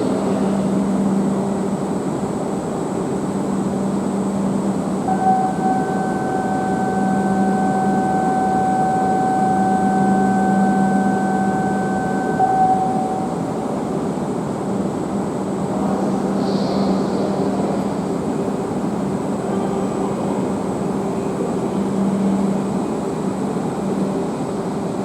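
Steady running hum of a Tohoku Shinkansen train at the station platform. A single steady high tone is held for about eight seconds in the middle.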